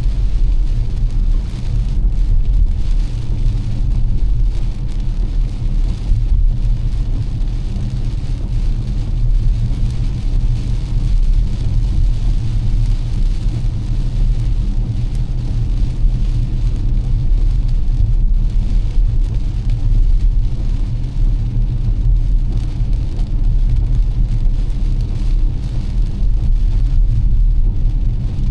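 Car driving in heavy rain: a steady low rumble of the car on the wet road, with an even hiss of rain and tyre spray.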